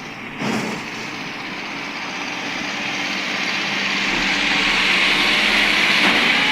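Tractor engines working hard under load and growing steadily louder as they pull a loaded truck that is bogged down in soft ground. A short thump comes about half a second in.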